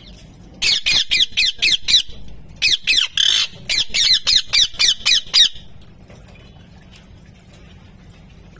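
Parrot screeching a quick series of short, harsh calls, each sliding down in pitch. The calls come in two bouts at about three a second and stop a little past halfway through.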